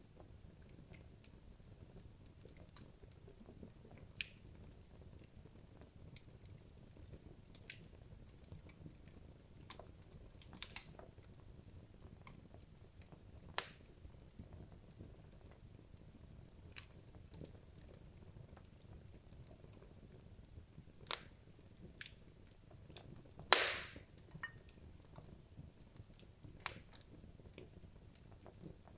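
Wood logs burning in a fireplace: scattered crackles and pops over a faint low rumble of the fire, with one loud sharp pop a little past three quarters of the way through.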